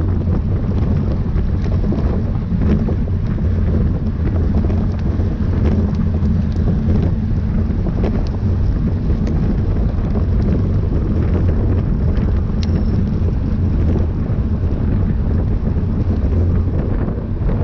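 Wind buffeting a moving microphone: a steady, loud, low rumble with a few faint clicks scattered through it.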